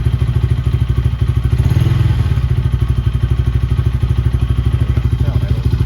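Swapped-in Templar X 250 engine idling in neutral with a rapid, even pulse, briefly swelling about two seconds in; it is running after a flywheel and stator swap.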